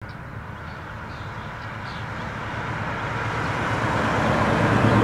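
Car engine running as the car draws steadily closer, growing louder throughout; it is likely the 1955 Studebaker Commander's 259 cubic-inch Bearcat V8.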